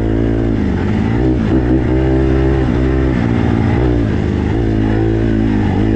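Four-stroke single-cylinder dirt bike engine running on a trail ride, its pitch dropping and climbing again several times as the throttle is rolled off and back on.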